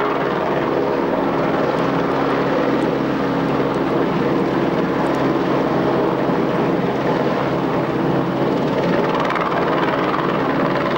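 Helicopter running steadily, a continuous dense engine-and-rotor noise with a low hum held throughout.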